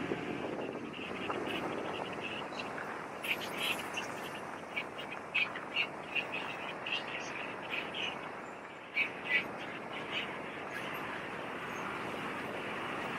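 Birds chirping, a string of short calls through the middle, over a steady background noise.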